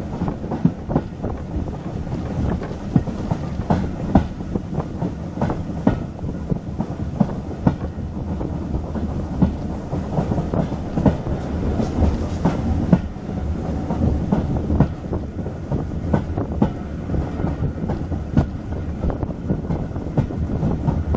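Railway carriage running along the line, heard from aboard the moving train: a steady rumble with irregular clicks and knocks of the wheels clattering over the track.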